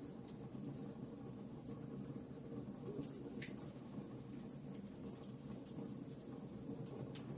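Wood fire burning in a fireplace: logs crackling with scattered sharp pops, a few a second, over a steady low rush of the flames.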